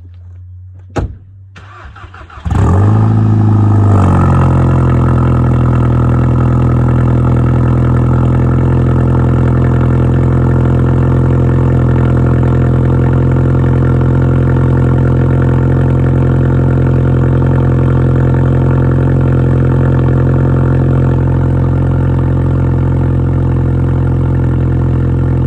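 Volkswagen Golf Mk6 GTI's turbocharged 2.0-litre four-cylinder, with full bolt-on modifications, cold-started: a click, then it cranks and catches about two and a half seconds in. It flares up briefly and settles into a steady, fast cold idle, which eases down slightly near the end.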